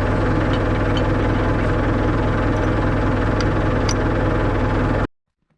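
Tractor engine running steadily at a constant speed, then stopping abruptly near the end.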